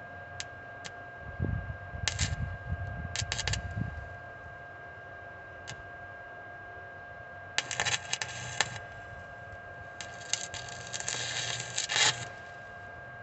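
Clusters of sharp metallic clicks and rattles, like hand tools and small parts being handled and set down, with a few dull knocks early on, over a faint steady whine.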